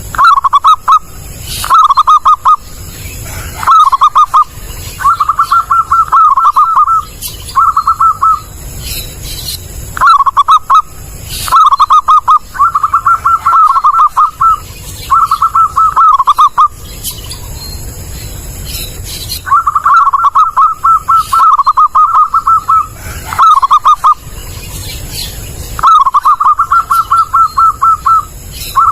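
Zebra dove (perkutut) cooing loudly and close: repeated phrases of quick staccato notes at much the same pitch, each phrase lasting a second or two, with short pauses between them.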